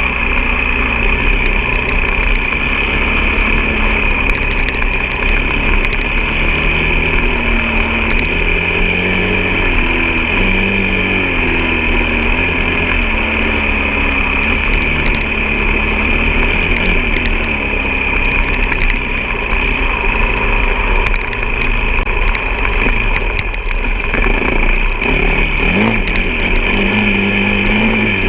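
Off-road motorcycle engine running while ridden, its pitch rising and falling with the throttle, over a steady high whine.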